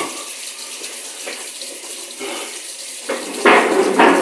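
Water running from a kitchen sink faucet in a steady stream, with louder bursts of sound near the end.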